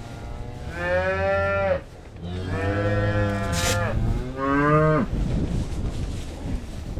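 Cattle mooing in a barn: three calls in a row. The first is about a second long, the second is longer, and the last is short and drops in pitch at its end.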